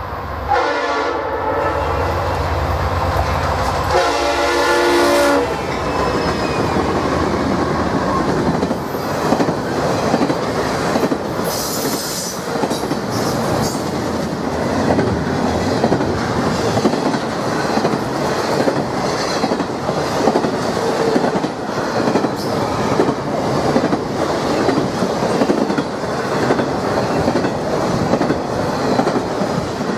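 CSX freight train horn sounding at the start, one long blast and then a second, shorter one about four seconds in. It is followed by the steady rolling and clickety-clack of autorack cars going by.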